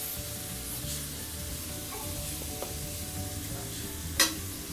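Onion, tomato and capsicum sizzling quietly in a metal kadai as they are stirred with a slotted spoon. There is a short knock about four seconds in.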